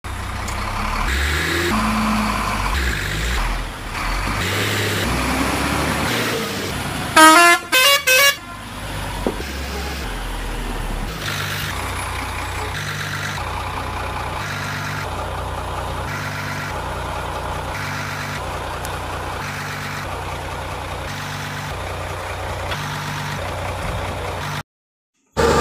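A vehicle engine running steadily, with three short horn honks about seven seconds in.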